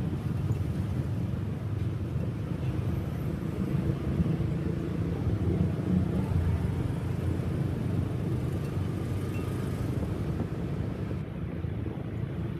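Motorcycle ride-along sound in city traffic: a steady low rumble of engine and road noise.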